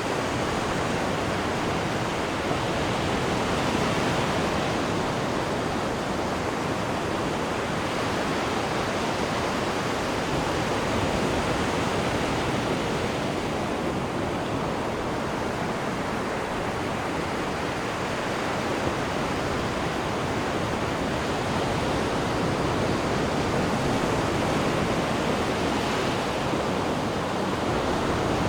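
Churning water of a cruise ship's wake behind the stern: a steady rushing with gentle slow swells.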